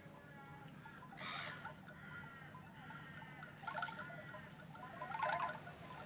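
Birds calling: a few short, louder calls about a second in, near the middle and near the end, among fainter calls, over a steady low hum.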